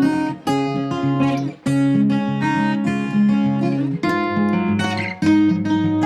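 Background music: acoustic guitar strummed and plucked in a steady run of chords, each chord changing about every half second to a second.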